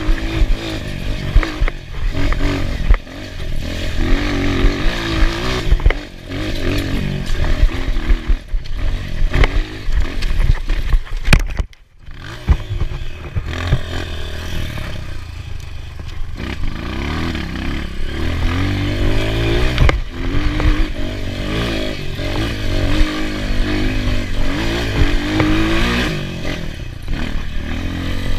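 Enduro dirt bike engine revving up and down over and over, with scraping and clattering mixed in; the sound cuts out sharply for a moment about twelve seconds in.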